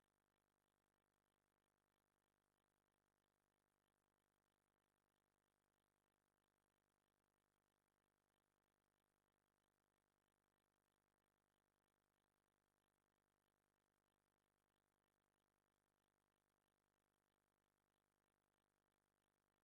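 Silence: the soundtrack is empty, with no audible sound.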